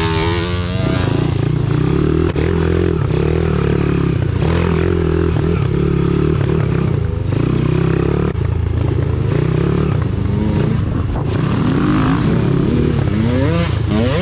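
Single-cylinder pit bike engine running under load, its pitch rising and falling with the throttle near the start and again near the end, and running fairly steadily in between.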